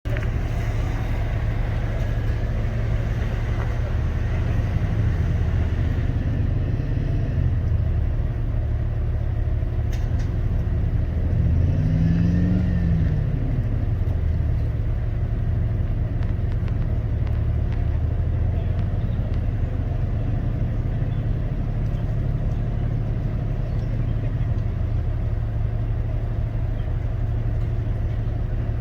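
Off-road vehicle engine running steadily at low revs, with one rev that rises and falls about twelve seconds in.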